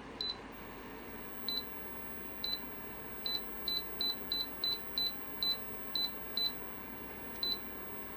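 Dreo ceramic tower heater beeping: a short, high, identical beep for each button press, about thirteen in all. The beeps come faster in the middle, over the steady whoosh of the heater's fan.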